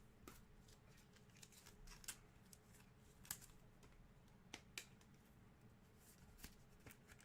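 Faint, scattered soft ticks of trading cards being handled and flipped through by hand, against near silence.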